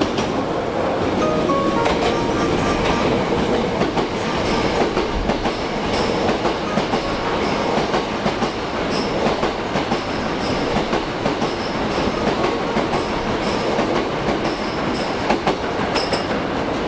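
Hankyu electric train running along the station platform: steady rolling noise with repeated clacks of the wheels over the rail joints.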